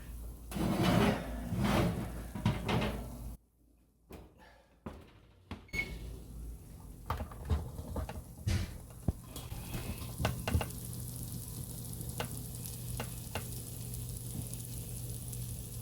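Sharp clicks and knocks of a metal pizza pan and oven rack being handled at a hot oven, over a steady oven hum and a faint hiss of sizzling.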